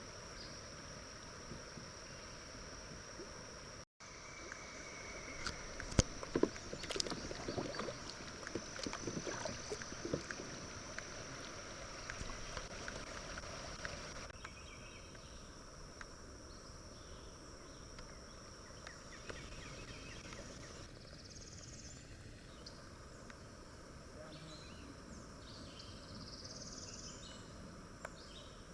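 Creek-side summer ambience: a steady high insect drone, a run of sharp knocks and taps from about six to thirteen seconds in, and short bird chirps toward the end.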